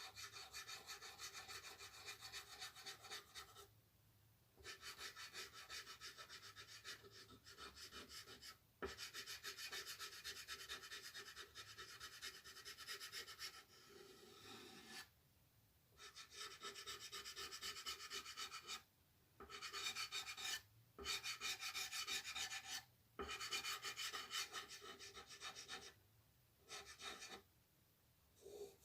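Quick back-and-forth shading strokes of a drawing tool scratching on paper, in runs of a few seconds with short pauses between them.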